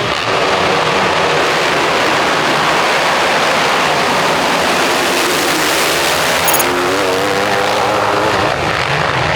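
A pack of 450-class motocross bikes running hard, the engines blending into a dense, loud drone. About six and a half seconds in, one engine's note stands out and climbs in pitch as it revs up.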